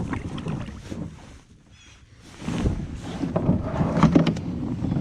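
Water splashing and sloshing around a kayak with rustling handling noise and scattered clicks while a hooked bass is fought to the boat, with wind buffeting the microphone. The noise eases for a moment about a second and a half in, then grows busier and louder.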